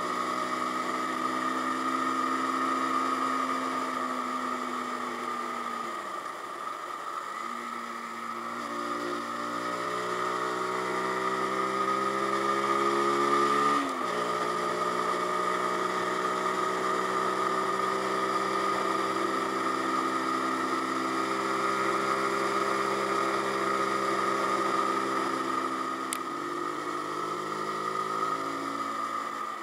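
Zontes G1X 125's single-cylinder engine running under way on the road. Its pitch rises and falls with the throttle: it sags and quietens about six seconds in, climbs again, then drops sharply about halfway through.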